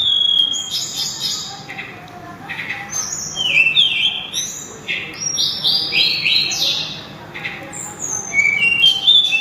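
Sulingan (tledekan gunung) songbird singing: phrases of clear, high whistled notes, many sliding down in pitch, given in three bursts with short pauses between.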